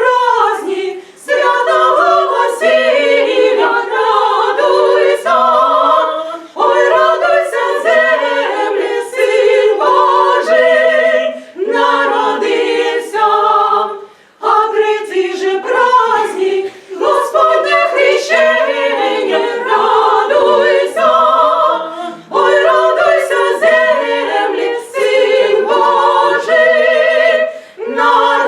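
A cappella choir singing several parts together, in phrases broken by short breaths.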